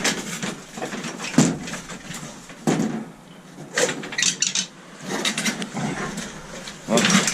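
Scrap metal clanking and clinking in a string of separate knocks as a piece is worked by hand to break off a stubborn bit of alloy.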